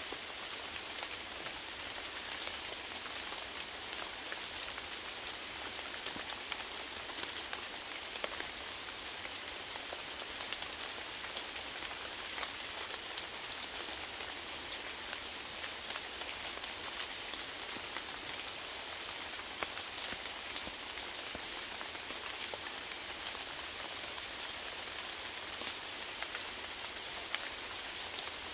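Steady rainfall, with a dense patter of drops hitting a surface.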